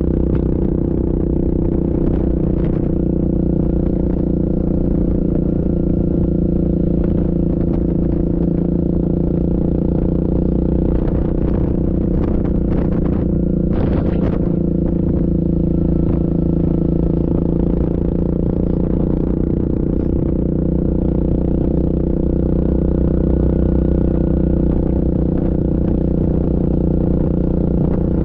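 Yamaha Grizzly ATV's single-cylinder engine running steadily under way, with body rattle and a few sharp clattering knocks about halfway through.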